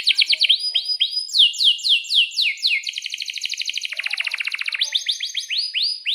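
Male domestic canary singing without a break: phrases of repeated sweeping chirps a few per second, then a fast trill (roll) about three seconds in, then more quick sweeping notes.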